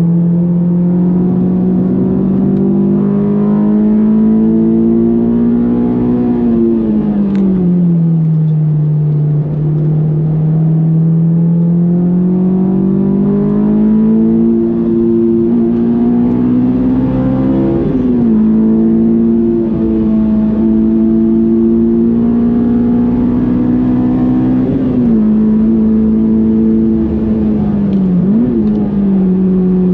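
Honda S2000's 2.2-litre F22 inline-four running hard on track, its note climbing slowly under load. It falls away smoothly once about six seconds in, then dips sharply and briefly a few times later on.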